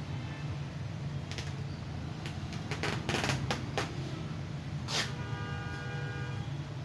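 Packing noises: clicks, knocks and rustles of packaging being handled, the sharpest about five seconds in, over a steady low hum.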